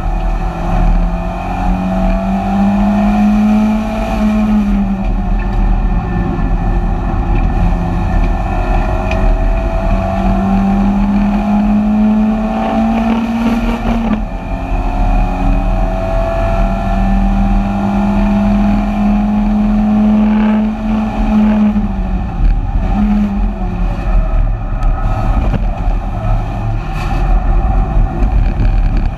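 BMW 318ti Compact race car's four-cylinder engine at racing speed, heard inside the stripped-out cabin. It holds high revs in long pulls, and the pitch drops sharply at each gear change or lift, four times. Steady road and wind noise runs underneath.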